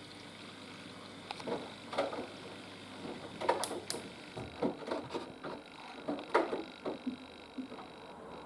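Haier HW120 front-loading washing machine's drum turning, with wet laundry tumbling and water sloshing in irregular splashes over a steady machine hum. A low hum underneath stops about four seconds in.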